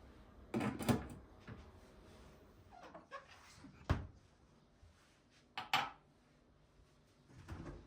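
A few separate knocks and clatters of household objects being handled, like cupboard doors and things being set down, with quiet between them.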